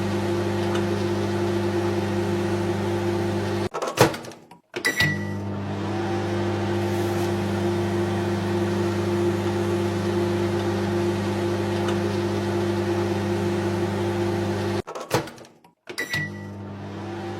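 Microwave oven running with a steady hum. About four seconds in, and again near the end, it stops with clicks and goes silent for a moment, then gives a short beep and the hum starts again.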